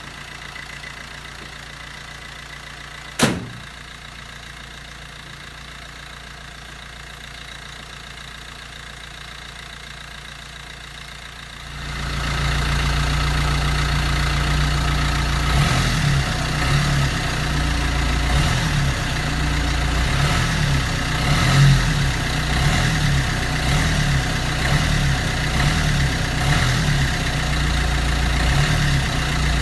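Diesel car engine idling just after a hard, long-cranking start, with a single sharp bang about three seconds in as the bonnet is shut. About twelve seconds in, the engine sound becomes much louder and deeper, a steady pulsing rumble.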